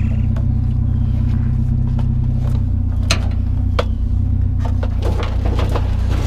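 Vehicle engine idling steadily, with two sharp knocks about three seconds in.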